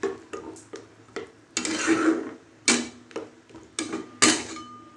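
A spoon stirring soup in a cooking pot: irregular clinks and knocks against the pot, a short scraping swish about two seconds in, and a few sharper knocks in the second half.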